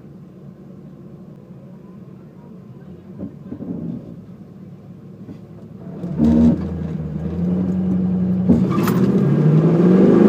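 A drag car's engine idles at the start line, swells briefly about four seconds in, then the car launches about six seconds in. The engine climbs in pitch as it accelerates hard down the strip, with a short break near the end that fits a gear change.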